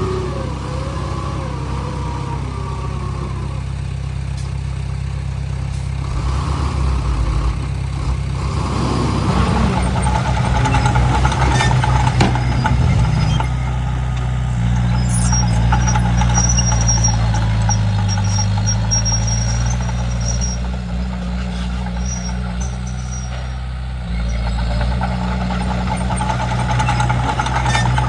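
Komatsu D31P bulldozer's diesel engine running steadily, swelling and easing as the dozer works, with some faint high squeaks in the middle.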